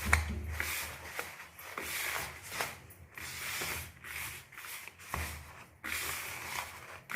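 Hands rubbing corn flour and semolina together with olive oil in a bowl, a repeated dry swishing of grainy flour, about one or two strokes a second.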